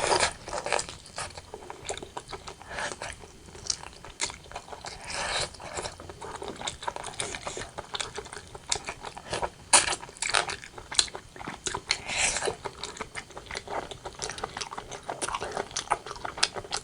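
Close-miked mukbang eating sounds: a person chewing and biting braised pork belly and white rice. The mouth sounds come as a steady run of irregular clicks and smacks, several a second, with louder clusters about ten and twelve seconds in.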